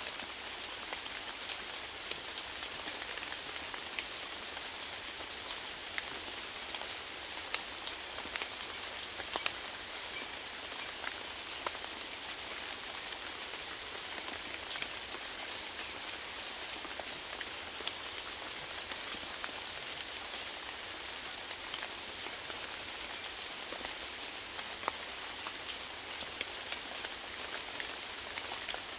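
Steady rainfall, with many individual drops pattering sharply on a surface over an even hiss.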